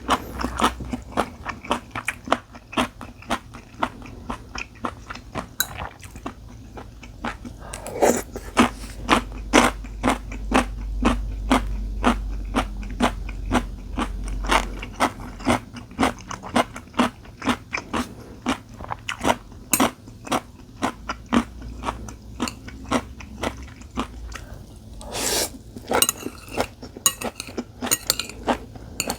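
Close-up chewing and biting of food, a steady run of sharp wet clicks at about two to three a second, with a longer, louder noisy sound near the end.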